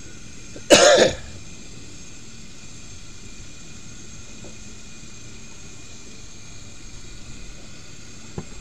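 Chicken legs frying in oil in a cast iron skillet on a propane camp stove: a steady sizzle. About a second in there is a brief, loud vocal sound.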